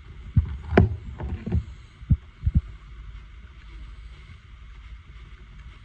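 A string of low knocks and one sharp clink from parts and tools being handled at the bike's engine, then a steady low rumble for the last three seconds.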